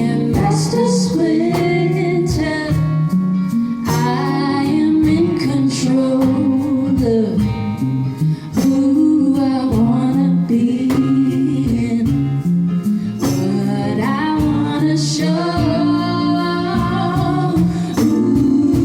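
A woman singing a pop song to a plucked guitar accompaniment, the guitar strokes keeping an even beat under the sung line.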